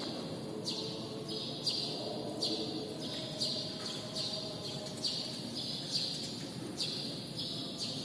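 Sparrow chirping steadily, short repeated chirps at about two a second, over a low background hum.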